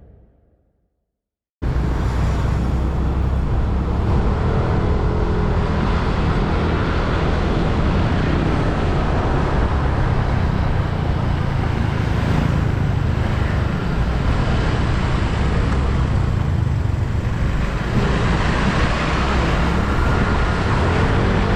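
Silent for about a second and a half, then steady road noise cuts in abruptly: a motorbike riding through city traffic, with engine and road rumble and other vehicles passing.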